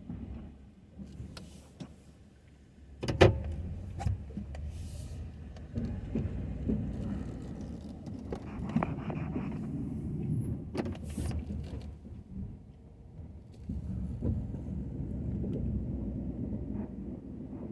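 Ford F-250 pickup running with a steady low rumble, with a sharp knock about three seconds in and scattered smaller clunks and clicks.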